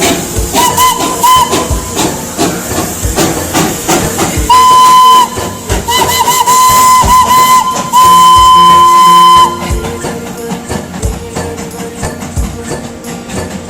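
Darjeeling Himalayan Railway steam locomotive's whistle blowing over a hiss of steam. A few short toots come about a second in, then a long blast, a run of quick toots, and a final long blast of about a second and a half.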